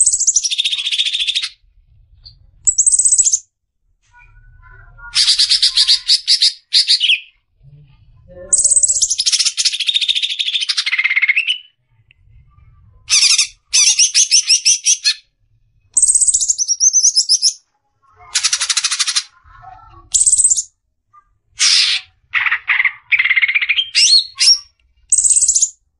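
Greater green leafbird (cucak ijo) singing besetan: a dozen or so fast, sharp bursts of high chattering trills, each a second or two long, separated by short silent gaps.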